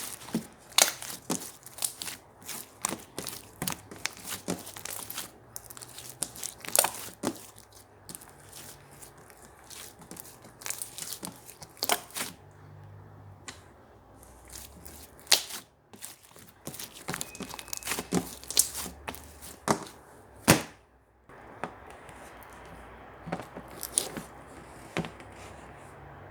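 Yellow marbled slime being pressed, stretched and folded by hand, making irregular sharp clicks and pops with a wet crackle between them.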